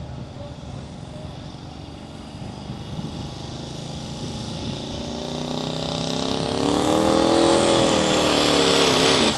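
Engine of a pulling truck or tractor running, then revving up and growing louder over the last few seconds as its pitch rises.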